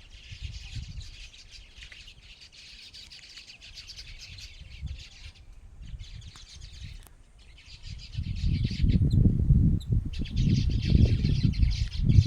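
Many small birds chirping densely, in stretches broken by short pauses. From about eight seconds in, a louder low rumbling noise comes in under the chirping.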